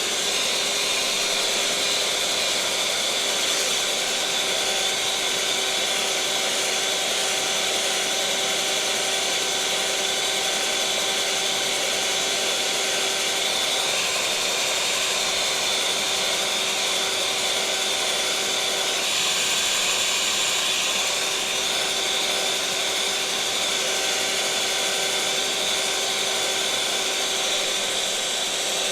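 Electric kitchen mixer running steadily: a constant motor whine over an even hiss, with no change in speed.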